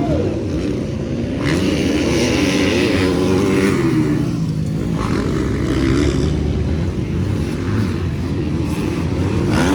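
Motocross bikes' engines running hard on the track, several engines overlapping, their pitch rising and falling as the riders work the throttles.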